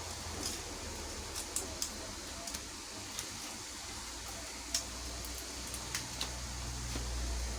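Scattered light clicks and taps from handling cooking things, over a steady low rumble.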